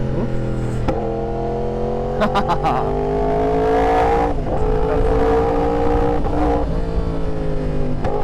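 Yamaha R1's crossplane inline-four engine pulling under throttle while riding, its note climbing steadily with a few brief breaks at gear changes, over a low wind rumble.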